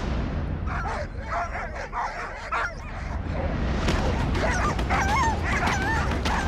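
A team of sled dogs yipping and whining, many short wavering cries overlapping, growing louder and busier about four seconds in.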